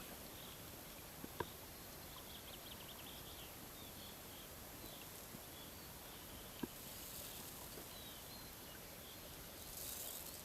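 Faint outdoor ambience on a river: distant small birds chirping over a steady quiet hiss, with a couple of soft knocks, most likely from the packraft's paddle.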